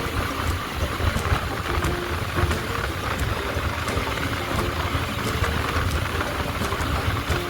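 Motorcycle engine running steadily under a wash of road and wind noise, with scattered sharp ticks through it.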